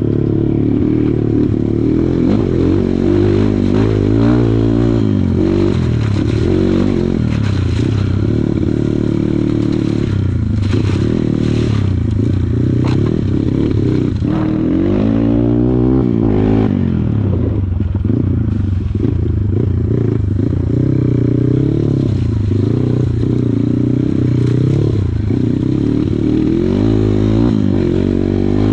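Kawasaki KLX140 trail bike's single-cylinder four-stroke engine ridden off-road, its pitch climbing and dropping again and again as the throttle is opened and shut, with a few knocks from the ride.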